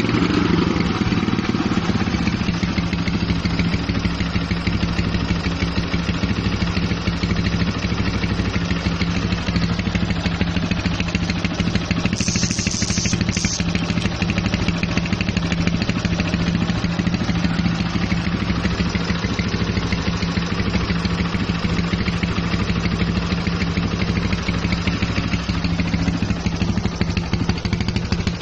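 2008 Yamaha Scorpio's single-cylinder four-stroke engine idling steadily on a test run, running normally. A short high-pitched sound comes twice in quick succession about twelve seconds in.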